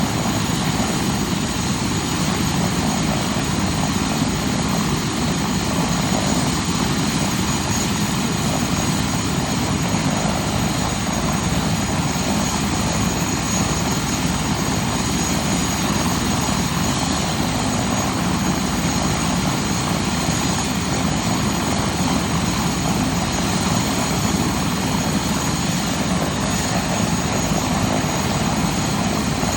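UH-72 Lakota helicopter's twin turboshaft engines and rotor running steadily on the ground: a constant heavy rumble with a thin, high turbine whine that holds one pitch throughout.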